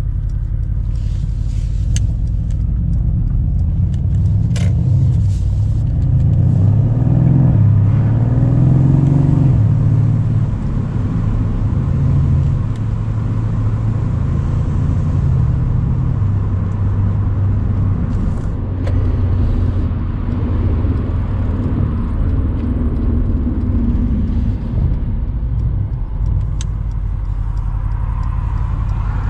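Mercedes-AMG C63 cabriolet's 4.0-litre twin-turbo V8 driving along at road speed, its low engine note climbing for a few seconds about a quarter of the way in, then settling into a steadier cruise.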